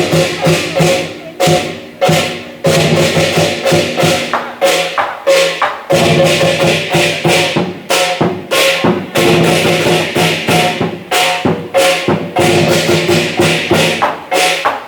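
Chinese lion dance percussion: a big drum beaten with clashing cymbals and a gong, in a steady driving beat of repeated strikes with the metal ringing on between them.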